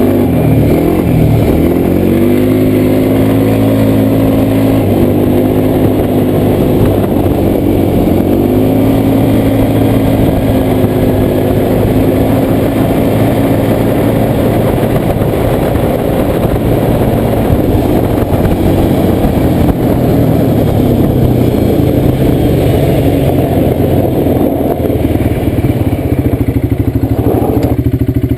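Quad bike engine running under way, its pitch rising and falling with the throttle several times before settling into a steadier run.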